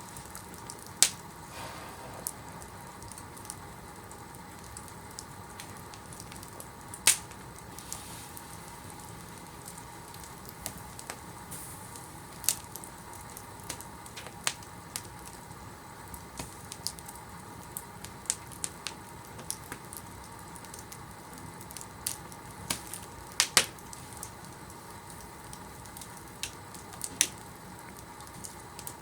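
Fire burning in a fireplace: a steady low hiss with irregular sharp crackles and pops, a handful of them much louder than the rest.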